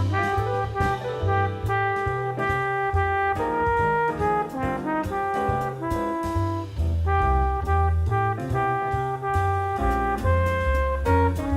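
Instrumental jazz: brass horns playing a melody over a bass line and drums.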